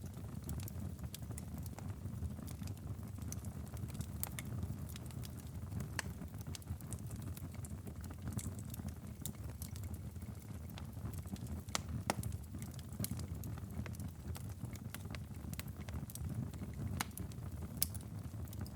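Wood fire in a fireplace crackling, with irregular sharp pops over a steady low rumble; a couple of louder pops, one midway and one near the end.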